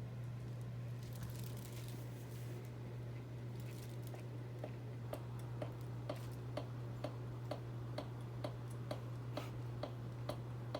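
Harbor Breeze Armitage II ceiling fan running unmounted on the floor, its motor giving a steady low hum. About four seconds in a light tick sets in and repeats about twice a second.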